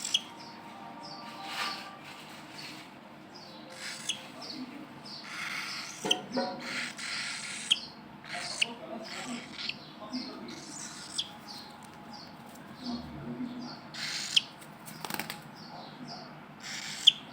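Pet cockatiels giving short, sharp chirps at irregular intervals, mixed with bursts of wing flapping.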